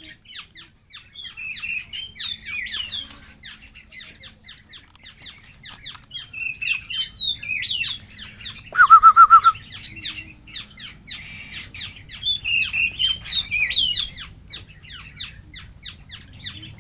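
Songbirds chirping and calling with many short, quick whistled notes. About nine seconds in comes the loudest sound, a rapid run of about six short, lower notes.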